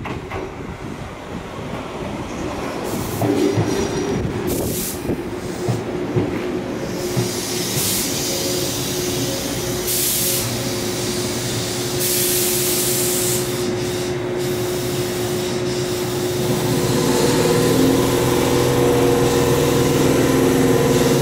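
Tobu 8000 series electric train pulling in along the platform and braking to a stop. The running noise grows louder, with several short hisses about halfway through and a steady hum from the standing train near the end.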